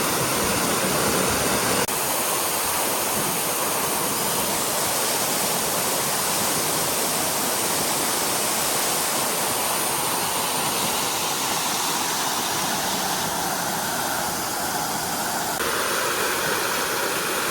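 Waterfall heard at close range: a steady, even rush of falling water, its tone shifting slightly about two seconds in and again near the end.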